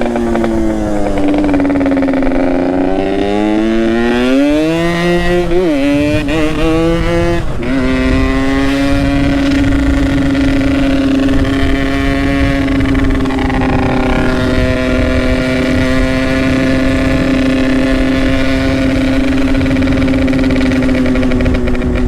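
Yamaha RX-King's single-cylinder two-stroke engine through an aftermarket Boban exhaust, riding under way. Its revs dip, then climb over the first six seconds, drop sharply at about seven and a half seconds, and then hold steady at cruising speed.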